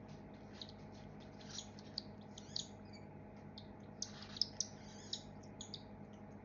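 Baby birds giving rapid, short, high-pitched begging chirps while being hand-fed formula from a syringe, the chirps coming thicker and louder about four seconds in.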